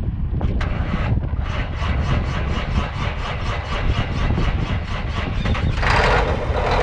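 Cummins diesel engine of a New Holland TJ375 tractor starting up: an even pulsing from about half a second in, then louder running near the end.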